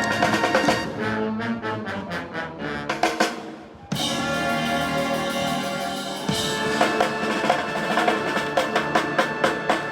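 A military band's brass and percussion playing the closing bars of a piece. After a run of short, punchy brass notes, a loud sustained brass chord comes in suddenly about four seconds in, with rapid drum strokes under it, and it cuts off right at the end as the piece finishes.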